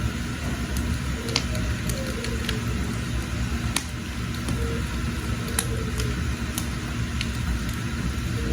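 Wood fire burning in a cooking hearth, with scattered sharp crackles and pops over a steady low rumble.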